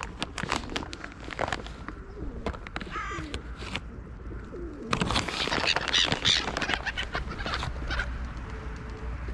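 A flock of birds: pigeons cooing in low, falling calls, with a dense high chirping of small birds growing louder about halfway through.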